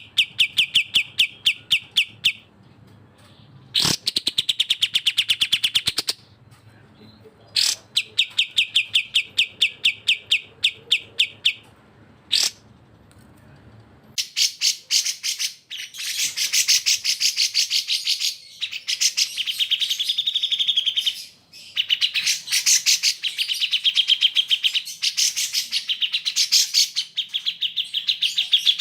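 Cucak jenggot and kapas tembak bulbuls singing: fast trills of quickly repeated notes in bursts of about two seconds with short pauses, turning about halfway through into a denser, almost unbroken chattering song.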